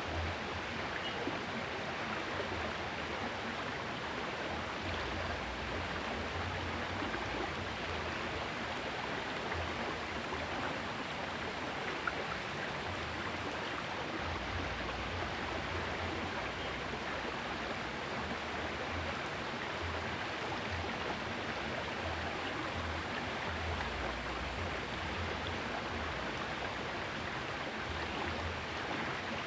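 Steady rush of flowing water in a small river, with low rumbles coming and going underneath and a single brief click about twelve seconds in.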